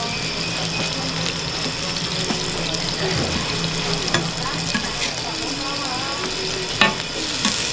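Chinese leek dumplings frying in oil on a large flat griddle, a steady sizzle, with a couple of sharp clicks near the end as a metal spatula scrapes under them.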